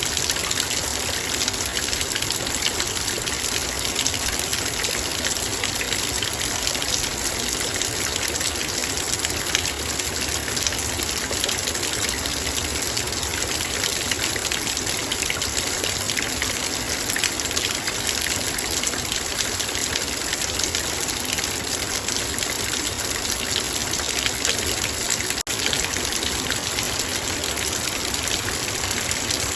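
Heavy rain drumming on a metal bowl: a dense, steady patter of countless drops.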